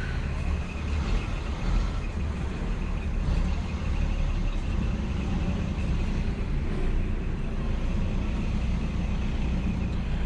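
Old Scania truck's diesel engine running steadily as the loaded truck pulls away slowly in low second gear.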